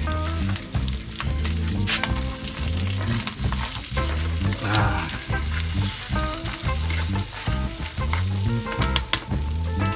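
Small river crabs frying in hot oil just after being added to the pan, a continuous sizzle with scattered clicks of stirring. Background music with a steady low beat plays underneath.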